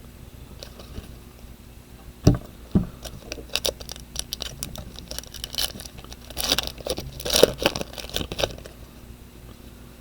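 Two knocks on a tabletop, then several seconds of crinkling and crackling: a trading-card pack's foil wrapper being torn open and the cards handled.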